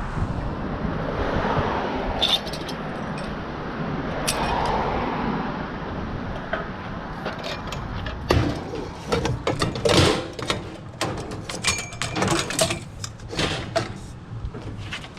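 A steady rumbling noise, then from about halfway a run of sharp knocks and clanks of metal scrap being handled and stacked onto a truck.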